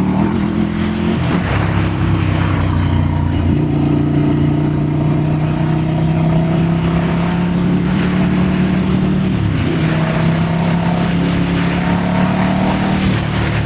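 Ducati Scrambler's air-cooled L-twin engine running under way on a trail ride, holding a steady pitch with a change in engine speed about a second in and again around three and a half seconds, and a brief dip about ten seconds in.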